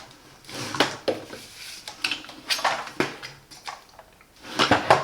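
Hard plastic and metal vacuum-cleaner parts, the telescopic metal tube and its fittings, knocking and clicking as they are handled and fitted together: several separate sharp clicks and light clatters, with a busier run of them near the end.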